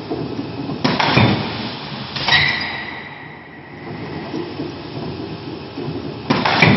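1000-ton forging press cycling: loud metallic clanks come in pairs about a second and a half apart, the second of each pair ringing on briefly, over a steady mechanical rumble.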